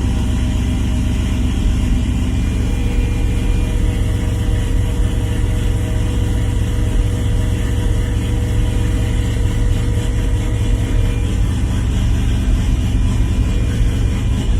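Turbocharged LQ9 6.0-litre V8 in a Nissan 350Z idling steadily on a cold start, with no revving.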